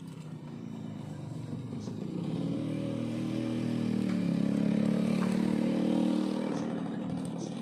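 A small engine running, growing louder through the middle and easing off near the end.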